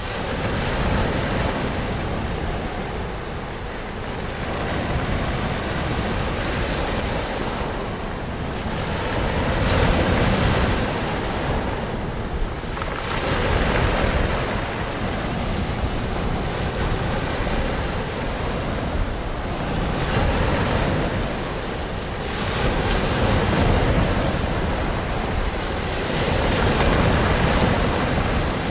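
Ocean surf: waves breaking and washing in continuously, the rush swelling and easing every few seconds, with some wind on the microphone.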